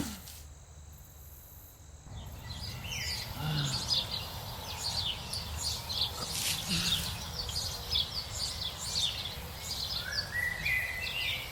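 Birds chirping: many short, high calls overlapping from about two seconds in. Near the end a rising series of stepped tones comes in.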